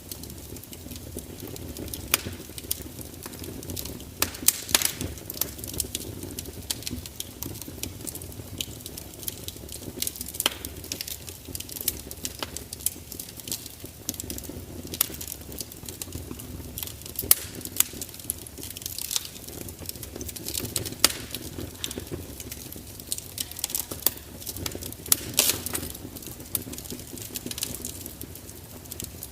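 Wood fire crackling, with irregular sharp pops and snaps over a low, steady rush of flame.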